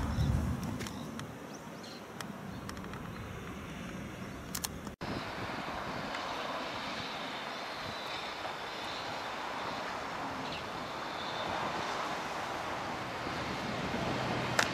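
Handheld rustling and a few clicks of someone walking for the first few seconds. Then a steady outdoor noise that slowly builds toward the end, the distant sound of an approaching freight train hauled by an EF65 electric locomotive.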